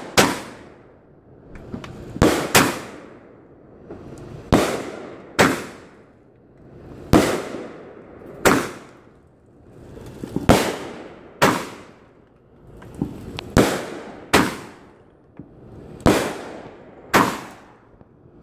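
Fireworks going off: a steady run of sharp bangs, often in pairs about a second apart, each trailing off in an echo.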